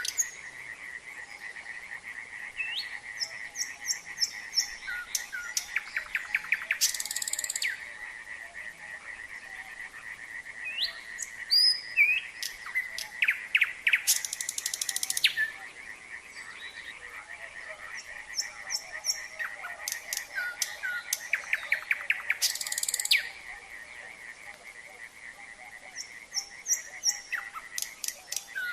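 Nightingale singing in varied phrases of quick repeated notes, rising whistles and loud harsh rattles, over a steady chorus of frogs.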